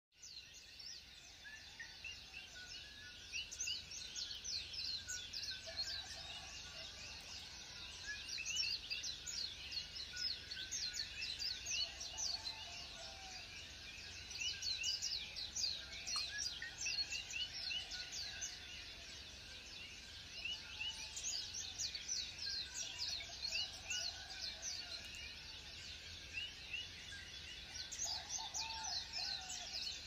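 Birds chirping: a dense, continuous stream of rapid, high, short downward chirps, with a lower warble now and then.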